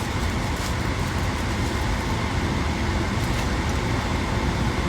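Steady low rumble and hiss of car cabin noise.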